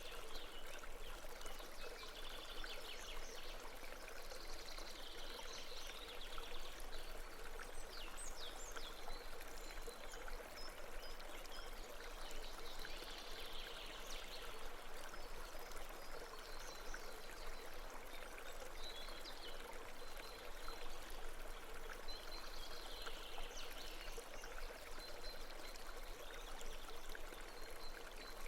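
Babbling brook: a steady, fairly faint rush and trickle of running water, with a few faint high chirps now and then.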